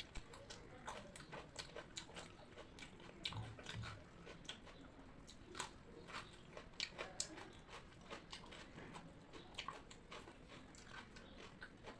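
A person chewing crunchy food close to the microphone: irregular crisp crunches and mouth clicks, several a second.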